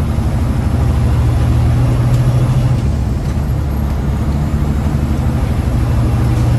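Big rig truck's diesel engine running steadily as the truck drives, a low drone with road noise over it.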